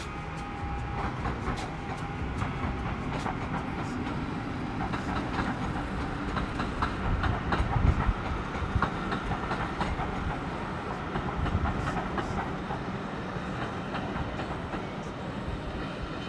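Heritage train running along the line, its wheels clicking irregularly over the rail joints above a steady rumble.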